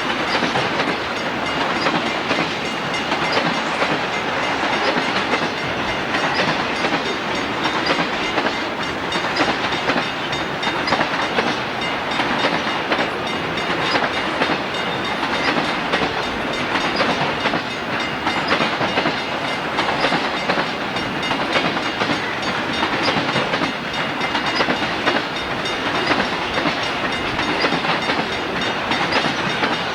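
Freight train cars rolling past steadily, their steel wheels clicking over the rail joints.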